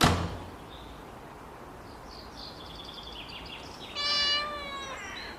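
Small birds chirping in a quick high run, then a cat meows once, loudly, about four seconds in, its pitch sliding slightly down.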